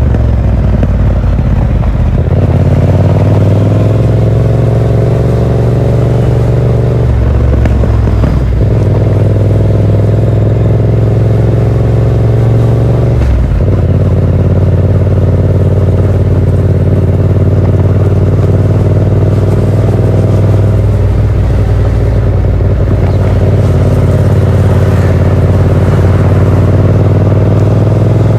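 Yamaha MT-07's parallel-twin engine running through a Yoshimura R77 exhaust with the dB killer fitted, heard from the rider's position while riding. The engine note is steady, with a few brief breaks where the pitch shifts, like gear changes.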